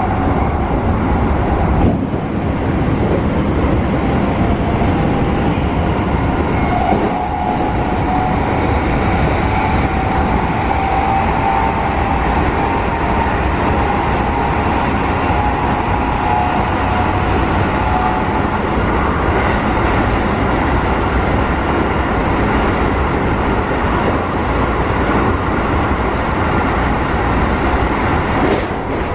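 Keikyu New 1000 series electric train heard from inside the passenger car while running: a steady rumble of wheels on rails, with a faint whine from its Mitsubishi IGBT-VVVF traction motors.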